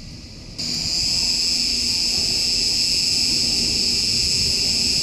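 Insects buzzing steadily in a high-pitched chorus that starts abruptly about half a second in, with a faint low hum underneath.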